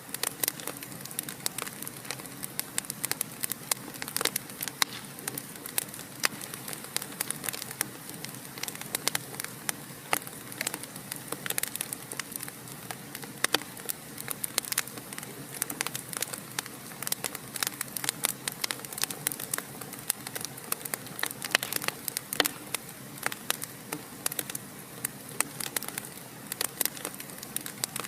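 Fire in a fireplace crackling, with frequent irregular sharp pops and snaps over a steady soft hiss.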